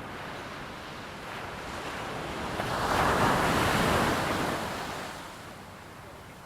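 PT-17 biplane with its radial engine passing by: a rushing noise that swells over about two seconds, peaks in the middle, then fades away.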